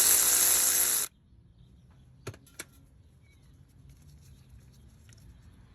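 A power tool's motor whirs for about a second and a half, spinning out the 13 mm bolt that holds the crankshaft position sensor, then stops abruptly. Two sharp clicks follow about a second later.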